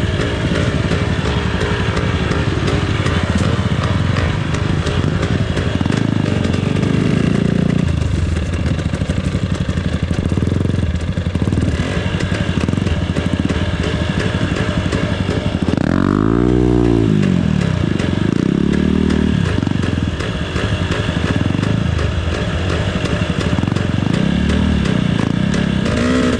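Off-road trail motorcycle engine running on a ride, its pitch rising and falling with the throttle. About two-thirds of the way in, the revs climb sharply and drop back.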